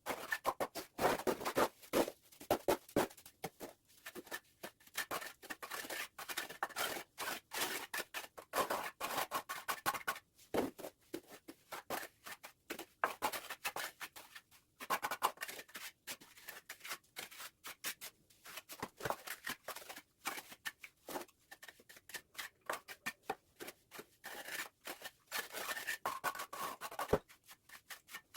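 Steel trowel scraping and spreading cement mortar in quick, irregular strokes.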